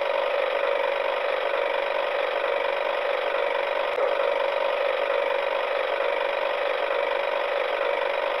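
Steady mechanical whirring at an even level, with a single click about four seconds in.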